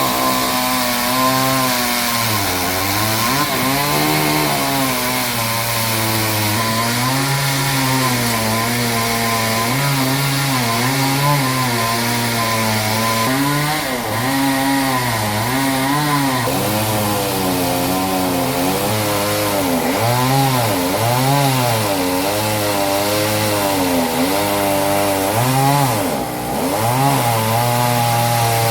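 Engine-driven saw cutting through a large trembesi log. The engine's pitch sags and recovers over and over as the blade bites into the wood, over a steady hiss of cutting.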